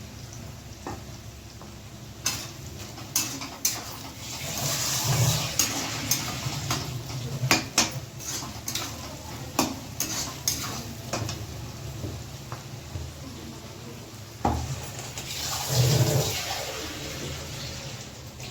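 A cooking spoon clinks and scrapes against a pan over a run of sharp knocks while food fries in it. The frying hiss swells twice, about five seconds in and again near the end.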